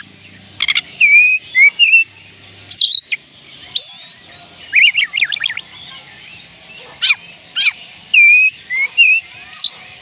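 Oriental magpie robin singing: a varied run of loud, clear whistled notes and quick sliding phrases, broken by short pauses.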